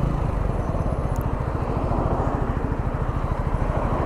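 Keeway Superlight 125 motorcycle engine running steadily at low speed in first gear, a fast even low pulse with road and wind noise over it.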